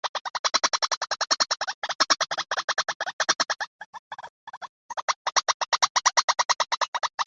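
White-breasted waterhen call from a lure recording: a rapid run of short, harsh repeated notes, about eight a second, broken by brief pauses.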